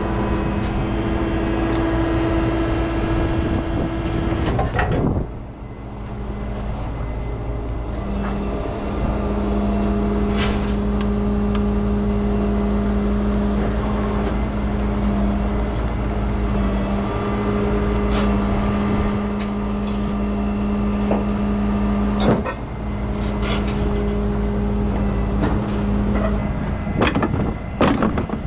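Heavy truck's diesel engine running steadily at a raised speed, its pitch stepping down and back up a few times, with a few sharp metallic knocks about five seconds in, past twenty seconds, and a cluster near the end.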